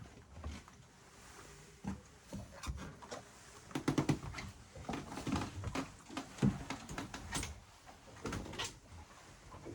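A series of irregular knocks, clicks and dull thumps, some close together in clusters about four and six and a half seconds in.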